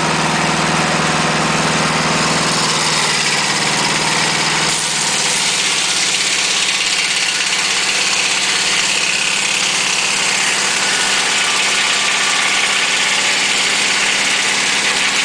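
Volkswagen engine powering a portable dimensional sawmill, running steadily. From about three to five seconds in the sound changes, the low engine tone weakening as a harsh hiss across the upper range takes over and holds.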